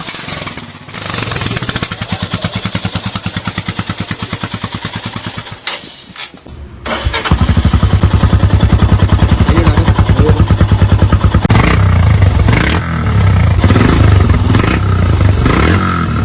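Royal Enfield Himalayan's single-cylinder engine running loud through an aftermarket Barrel Exhaust Rogue silencer with an even, rapid beat. The sound dips briefly about six seconds in and comes back louder and fuller for the rest.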